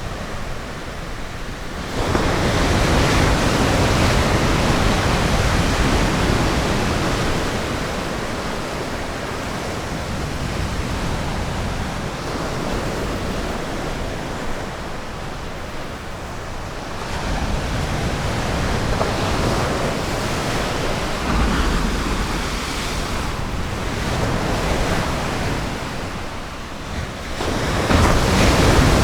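Ocean waves breaking and washing up on a sandy beach, a steady rushing roar that swells with a wave about two seconds in, again around the middle, and once more near the end.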